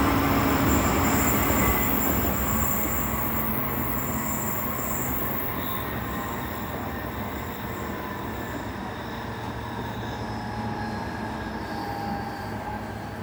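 Running noise inside a Tsukuba Express TX-2000 series train car, growing steadily quieter as the train slows towards a station, with faint high whining tones over the rumble.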